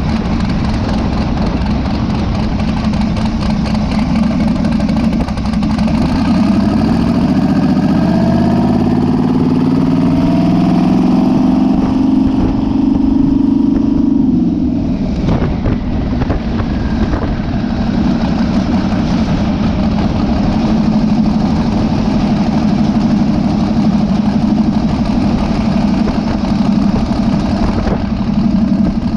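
Twin-turbo Mazda B2000 pickup's four-cylinder engine running steadily, then pulling hard with its pitch rising for several seconds and levelling off. About halfway through the throttle is cut off abruptly, with a few sharp pops. The engine then settles back to a steady run.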